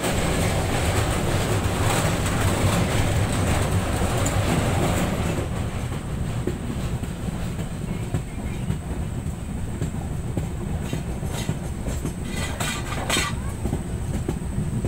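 Train running on the rails, heard from inside a carriage: a steady low rumble that is louder for the first five seconds, with a quick run of clicks and clatter a couple of seconds before the end.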